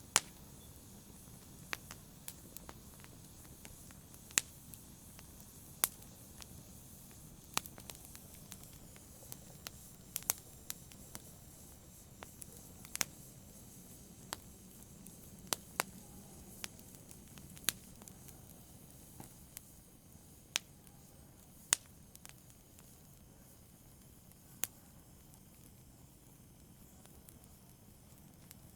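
Wood fire crackling: sharp, irregular pops and snaps every second or so over a soft low hiss of the flames, the pops thinning out toward the end.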